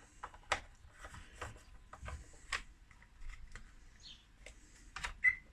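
Scattered light plastic clicks and handling ticks as a chainsaw's fuel cap is screwed back on after priming.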